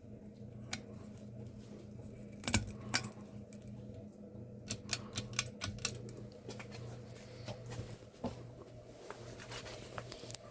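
Ceiling fan motor humming steadily, with a scatter of sharp clicks and light rattles over it, a loud pair about two and a half seconds in and a quick cluster around five to six seconds in.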